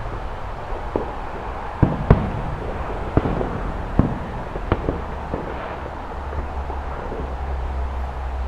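Fireworks going off: a scattered run of sharp bangs and crackles, the two loudest close together about two seconds in and another strong bang about four seconds in.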